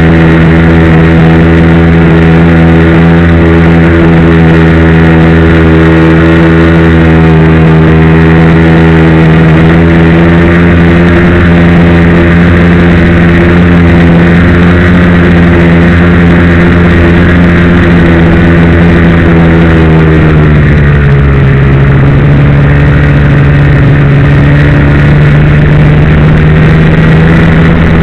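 Ski-Doo Blizzard MX snowmobile's two-stroke engine running steadily, very loud and close. Its pitch eases a little about ten seconds in, then drops to a lower, steady speed about twenty seconds in.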